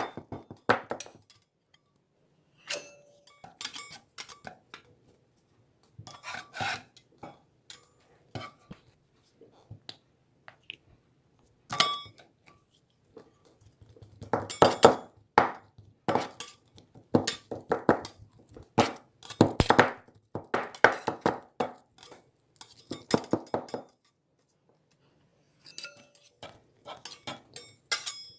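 Irregular clinks, taps and knocks of hard objects being handled, coming in scattered clusters with short quiet gaps between.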